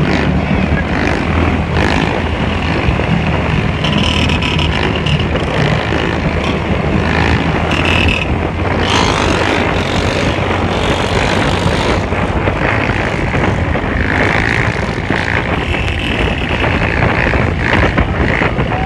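Motorcycle engines running, loud and steady.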